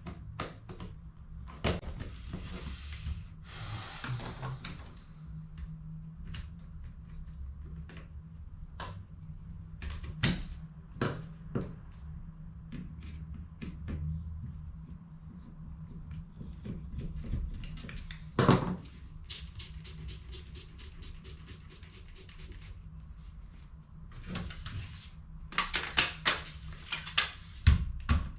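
Irregular plastic clicks, knocks and light rattles of HP CE285A toner cartridge parts being handled and fitted during refilling, with a sharper knock about two-thirds of the way through and a quick run of clicks near the end, over a steady low hum.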